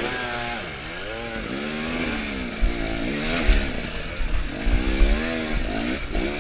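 Dirt bike engine revving up and down again and again as the rider works the throttle up a slick clay hill. A few dull thumps come through in the second half.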